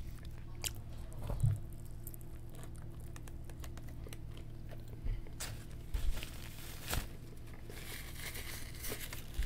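A person chewing a mouthful of chicken sandwich close to a microphone: scattered wet clicks and smacks, the loudest about one and a half seconds in, over a faint steady low hum.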